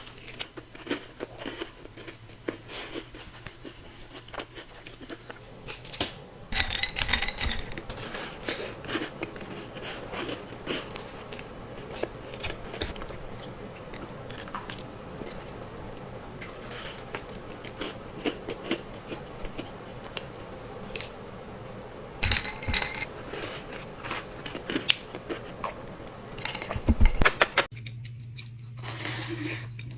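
Close-miked ASMR eating of Crumbl cookies: many short bites, crunches and wet chewing sounds in irregular bursts, over a low steady hum.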